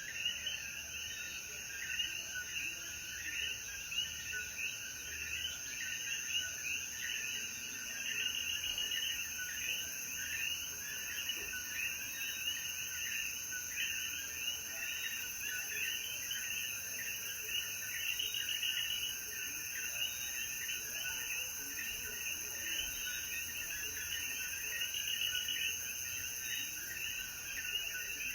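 A dense chorus of Puerto Rican coquí frogs: many short, high, two-note calls overlapping without pause, over a steady high insect hum.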